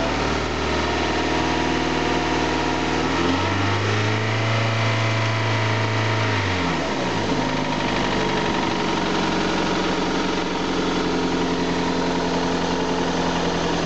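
Toyota 1ZZ-FE 1.8-litre VVT-i inline-four engine idling, revved up about three seconds in, held at the higher speed for a couple of seconds, then settling back to a steady idle.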